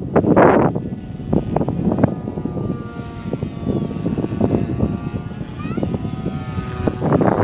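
Battery-powered electric motor of a scratch-built RC F-22 model whining in flight, its pitch rising and falling with the throttle. Strong wind buffets the microphone throughout, loudest near the start and again near the end.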